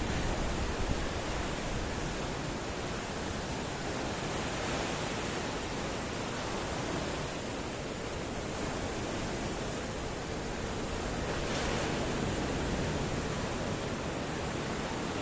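Ocean surf washing steadily, with one wave swelling slightly louder a little past halfway.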